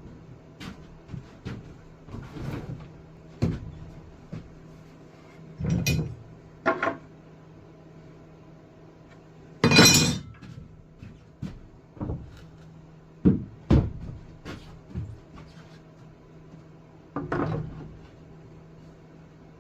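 Scattered knocks and clatters of wood and tools being handled and set down, about a dozen separate hits, the loudest about ten seconds in. A faint steady low hum runs underneath.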